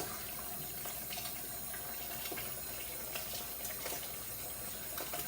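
Water running steadily into a pressure canner, topping up its water level before processing, with a few faint clicks.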